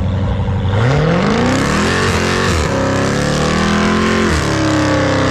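Car engine revving hard: its pitch climbs from about a second in, drops sharply twice as it climbs again, then holds steady.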